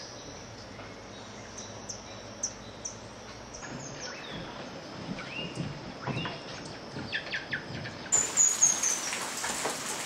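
Birds calling: scattered short, thin high notes, a few curved whistled notes in the middle, and a quick run of descending high notes near the end, over a soft steady background.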